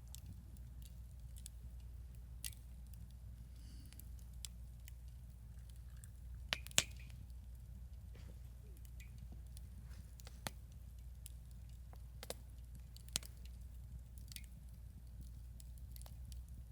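Wood campfire crackling: irregular sharp pops and snaps, the loudest a quick pair about six and a half seconds in, over a steady low rumble.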